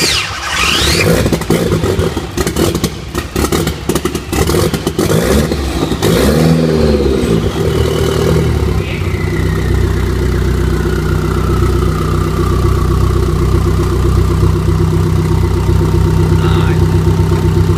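Freshly installed Nissan SR20DET turbocharged four-cylinder running just after starting. For the first several seconds it runs raggedly with irregular crackling knocks and one brief blip of revs, then settles into a steady idle. Over the idle a whine slowly falls in pitch.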